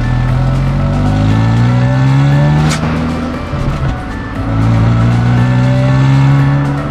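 Honda Fit's engine accelerating, its pitch rising steadily, falling sharply at a gear change about three seconds in, then rising again and falling once more near the end.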